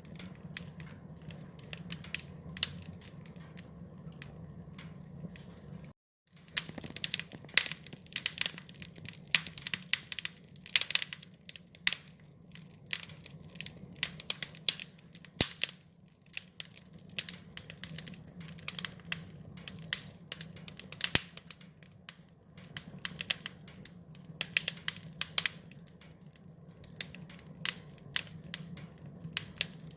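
Wood fire crackling and popping: irregular sharp snaps over a steady low rumble of the flames. The sound cuts out completely for a moment about six seconds in.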